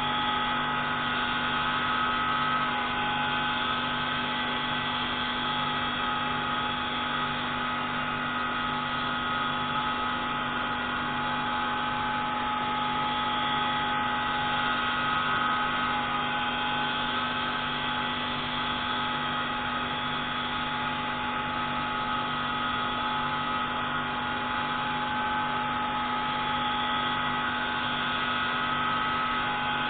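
Pneumatic valve-grinding tool running steadily on a MAK 601C marine engine's intake valve: a constant mechanical whine and hum with a low beat about once a second.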